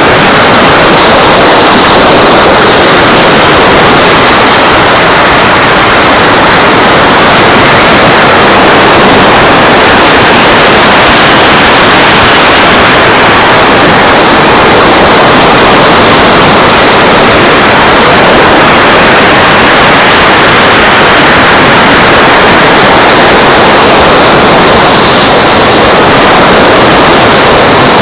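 Steady, loud rushing of surf and wind on an open beach, an even hiss with no distinct breaks.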